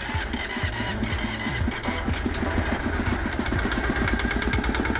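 Sailboat's inboard engine starting on its test run after a valve-train repair (push rods, rocker arms and valve covers refitted), then running with a steady, even beat: the repair has worked.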